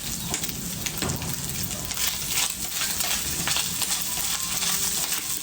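Food frying in hot oil: a steady sizzle with scattered small crackles and pops.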